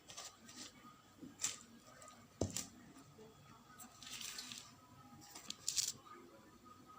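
Faint, scattered kitchen handling noises: a few light clicks and knocks of utensils and dishes, with a short scraping sound about four seconds in.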